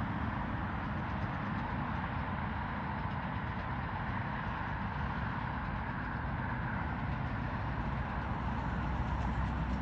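Jet airliner engines running, a steady rumble with a hiss higher up that holds at an even level throughout.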